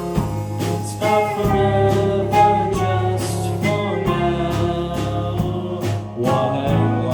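Live band music: a singer over guitar, bass and drums, with a steady beat.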